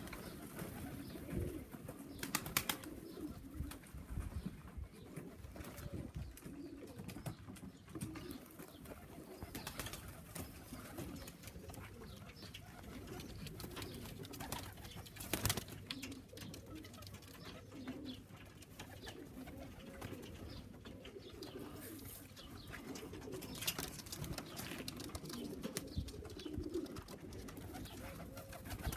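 Pigeons cooing, low and repeated, with a few sharp knocks.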